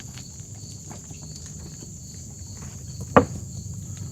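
Crickets chirping steadily, with scattered small pops and crackles from chicken cooking in oil in a cast-iron Dutch oven over a campfire, and one sharp click about three seconds in.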